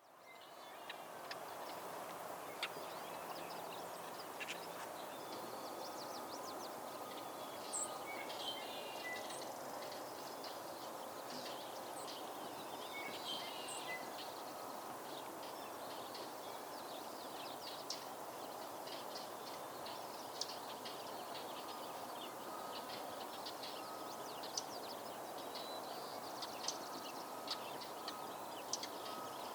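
Birds chirping and calling, many short chirps and a few brief high whistles scattered throughout, over a steady rushing background noise.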